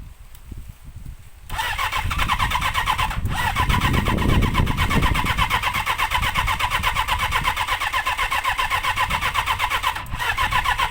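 Classic motorcycle's electric starter cranking the engine in a fast, even rhythm for about nine seconds, with two brief breaks. The engine is not catching on a bike with a fault the owner has yet to sort out.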